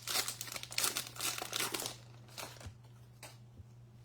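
Foil wrapper of a trading card pack being crinkled and torn open, busiest in the first two seconds, then a couple of soft ticks.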